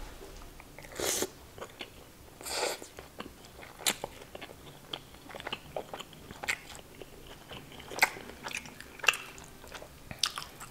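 Close-miked chewing of garlic naan dipped in chana masala: wet mouth clicks, smacks and soft crunches, with two short hissing sounds about a second and two and a half seconds in.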